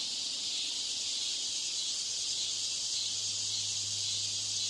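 Steady high hiss with a faint low hum underneath: background noise deliberately laid under the test audio to imitate a poor exam-room broadcast system.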